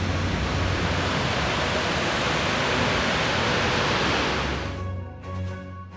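Steady rushing of river water, an even loud noise that drops away sharply about five seconds in, leaving faint steady tones underneath.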